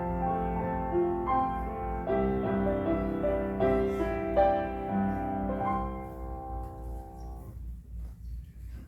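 Piano playing slow chords; the last chord is held and fades out about three-quarters of the way through, leaving faint room noise.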